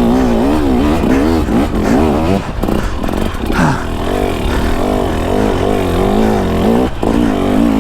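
Two-stroke dirt bike engine revving up and down over and over as the throttle is worked on and off under load, its pitch rising and falling about twice a second.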